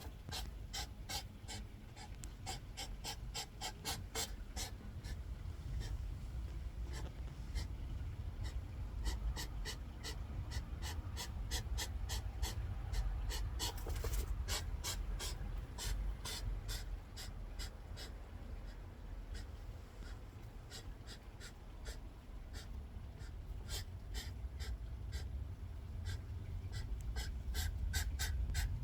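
Hedgehogs huffing and snorting during a fight: rapid, repeated short sharp puffs several times a second, over a steady low rumble.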